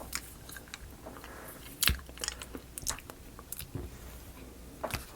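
Scattered light clicks and taps of small wooden model-kit pieces being handled and sorted, the sharpest about two seconds in.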